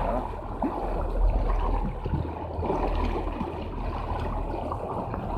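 A boat's engine hums steadily under a continuous wash of water against the hull.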